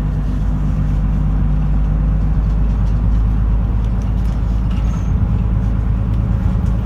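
Steady engine hum and road noise heard from inside a route bus's cabin as it drives along.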